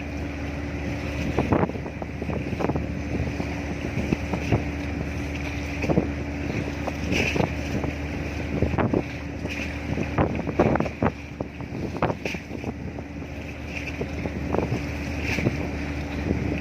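A ship's engine drones steadily, with a constant low hum and a steady tone above it. Wind gusts buffet the microphone irregularly.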